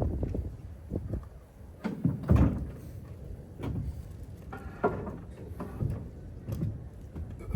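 Irregular knocks and thumps at uneven intervals, the loudest about two seconds in, over a low rumble.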